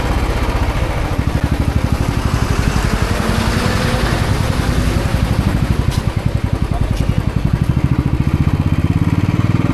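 Motorcycle engine running under way, a fast even pulsing with a steady rush of noise over it; the sound cuts off abruptly at the very end.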